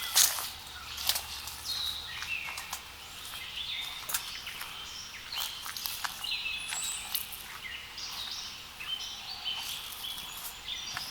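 Several songbirds chirping and calling, short high notes that come again and again. A couple of crunching footsteps on the trail sound just at the start.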